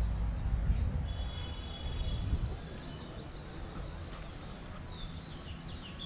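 Small birds chirping in quick runs of short, sweeping high notes, over low background noise.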